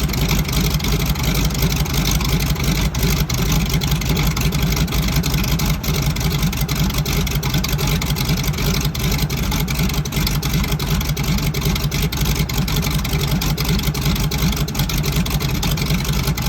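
De Havilland Beaver's Pratt & Whitney R-985 nine-cylinder radial engine running steadily after start-up.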